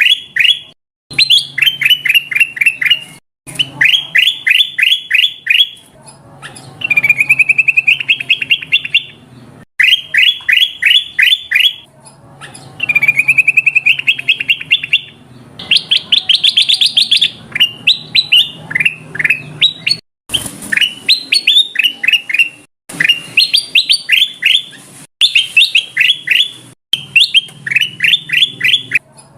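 Kutilang emas (ruby-throated bulbul) song played as a bird-trapping lure call: repeated phrases of quick, falling whistled notes, a phrase every second or two, broken by abrupt cuts, over a faint low hum.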